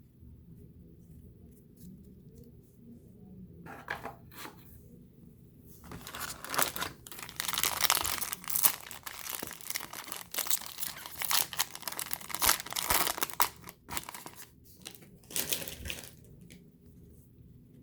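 A trading card pack's wrapper being torn open and crinkled by hand. A few short rips about four seconds in, then several seconds of dense tearing and crinkling that fades near the end.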